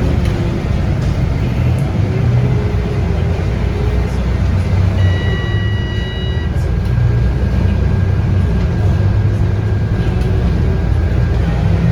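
Scania K230UB bus's 8.9-litre five-cylinder diesel running steadily as the bus drives, heard from inside. About five seconds in, a high electronic chime of several pure tones sounds for roughly a second and a half.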